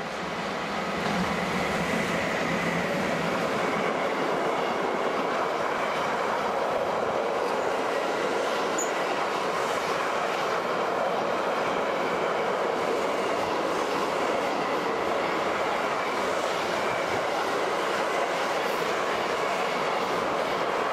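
Freight train of empty car-transporter wagons rolling past, hauled by two Class 185 electric locomotives: a steady rumble of wheels on rail that swells in the first second and then holds.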